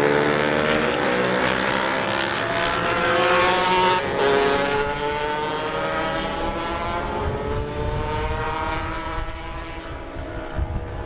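Racing motorcycle engines at high revs as the bikes race past, several engine notes overlapping and gliding slowly in pitch. There is a brief break in the sound about four seconds in, and a low rumble grows near the end.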